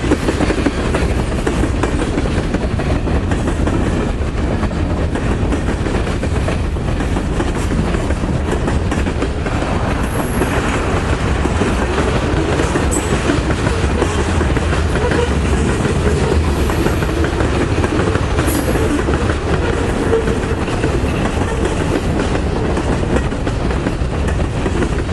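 Norfolk Southern train's railcars rolling past: a steady, loud rumble and clatter of wheels over the rails, with two brief faint high squeals, about ten seconds in and again near two-thirds of the way through.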